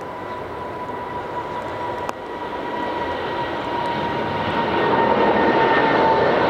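Boeing 777-300ER's GE90 turbofan jet engines at departure power, a roar growing steadily louder with a steady whine that slowly falls in pitch.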